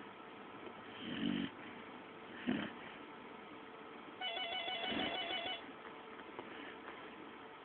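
Pit bull snoring in its sleep: three short snores, a second or two apart. About four seconds in, a warbling electronic tone sounds for about a second and a half over the snoring.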